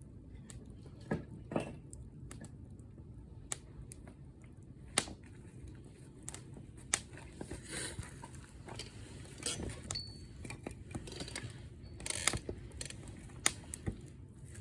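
Wood fire crackling: irregular sharp pops and snaps of varying strength over a low steady rumble, with a few short hissing flares and a brief thin whistle about ten seconds in.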